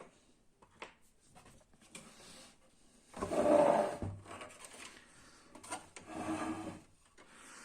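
Plastic printer cover being worked loose and pulled off: a loud scraping rub lasting about a second, about three seconds in, and a softer scrape around six seconds, with light handling knocks between.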